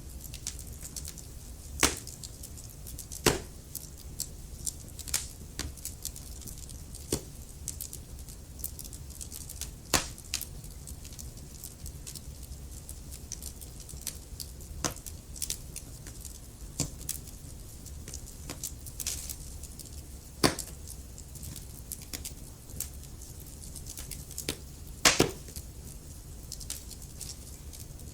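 Wood fire in a fireplace crackling, with irregular small snaps and a handful of sharper, louder pops, over a steady low rumble.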